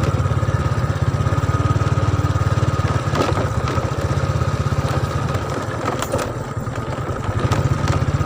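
Small motorcycle engine running steadily as the bike is ridden, with a fast, even pulsing hum that eases off slightly near the end.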